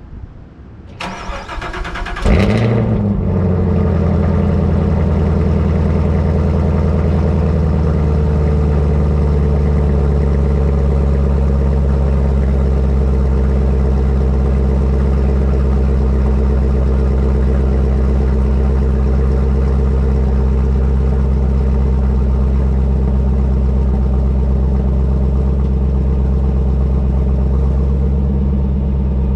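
Chevrolet Camaro ZL1's supercharged 6.2-litre V8 being started: the starter cranks about a second in, the engine catches with a brief flare at about two and a half seconds, then settles into a steady idle through the exhaust, echoing in a parking garage.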